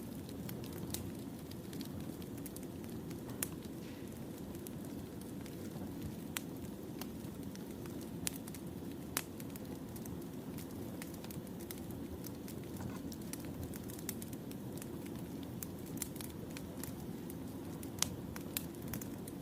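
Firewood burning in a campfire: a steady low rush of flames with irregular sharp crackles and pops, a few louder snaps among them.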